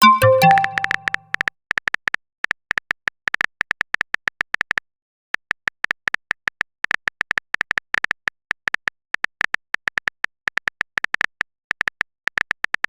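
A short message-notification chime, then a long run of rapid, irregular typing clicks with a short high beep on each keystroke, pausing briefly about five seconds in. These are the keyboard sound effects of a chat-app message being typed.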